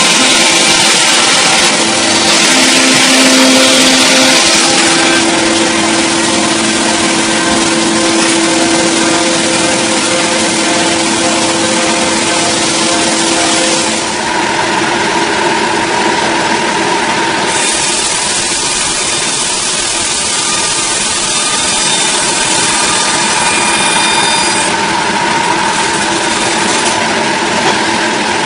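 Engine-driven saw running steadily under load while cutting a large log, with a dense high hiss and a held engine tone that changes pitch about halfway through.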